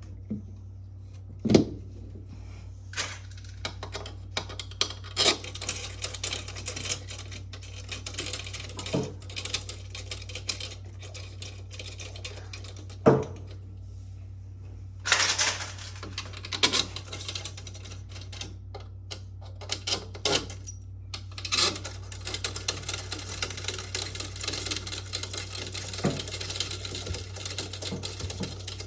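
Rapid metallic clicking and clinking, with a few sharp knocks, from hand tools and metal parts being worked on the washing machine's direct-drive motor, over a steady low hum.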